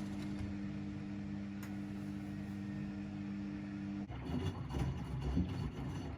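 Laundry machines running: a steady motor hum with two low tones that cuts off about four seconds in, leaving an uneven low rumble with scattered knocks.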